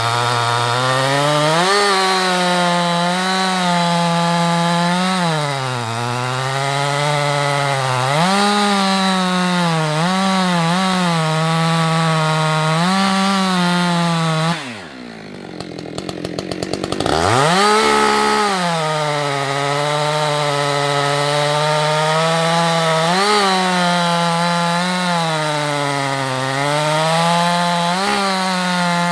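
Husqvarna 365 X-Torq two-stroke chainsaw with a 24-inch bar cutting firewood at high revs, its engine note dipping as it loads in the cut and rising again as it frees up. About halfway through, the throttle is released and it drops to a low idle with separate firing pulses for a couple of seconds, then revs back up and carries on cutting.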